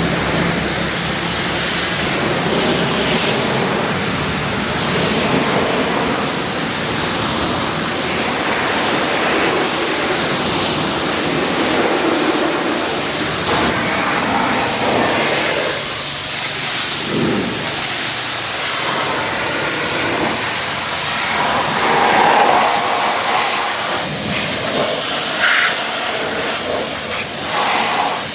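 Pressure washer spraying water against a truck, a steady loud hiss whose tone shifts now and then.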